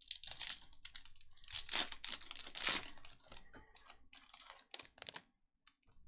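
Crinkling and tearing of trading card pack wrappers, with cards rustling: a run of short noisy rustles, loudest about two to three seconds in.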